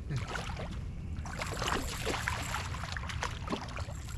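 Water splashing and sloshing close by, busiest from about a second in until near the end, over a steady low rumble.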